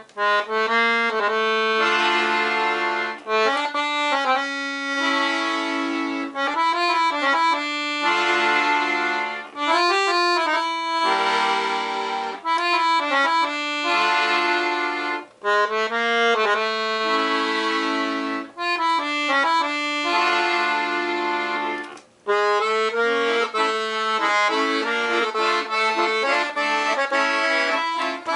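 A Black Parrot 120-bass piano accordion playing a tune, its treble melody and chords sounding on three reed sets (one low, two middle), over bass notes and chords from the left hand. The phrases are continuous, with brief breaks about halfway through and again about two-thirds through.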